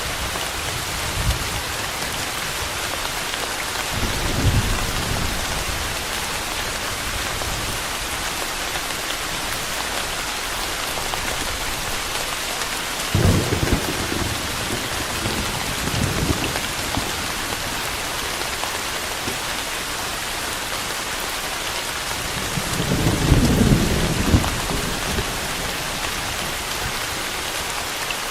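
Steady rain falling, with thunder rumbling low several times; the longest and loudest roll comes about two-thirds of the way through.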